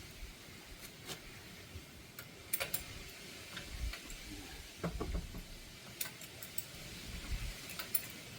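Irregular light metallic clicks and a few dull knocks from tools and suspension parts being handled during strut fitting on a car.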